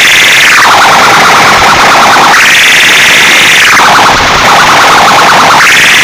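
Loud, harsh electronic siren-like wail through a loudspeaker, gliding up in pitch, holding about a second, then sliding back down, repeating roughly every three seconds.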